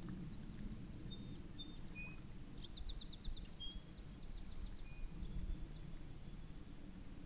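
Small songbirds chirping, with a quick run of rapid repeated notes about three seconds in, over a steady low background rumble.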